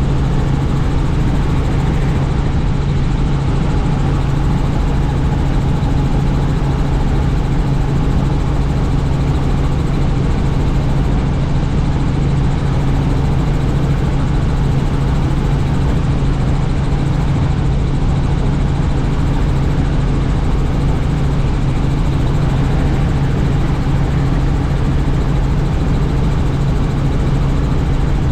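Helicopter in flight heard from on board with the doors off: a loud, steady rotor and engine drone with a strong low hum.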